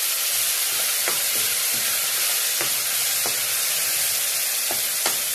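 Sardines in tomato sauce sizzling loudly in a hot wok of sautéed garlic, onion and ginger, a steady hiss as the sauce hits the hot oil. A metal spatula stirring them clicks against the pan a few times.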